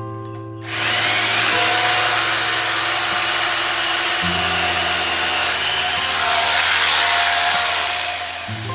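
An electric power tool running steadily for about eight seconds, starting just under a second in and stopping near the end, over background music.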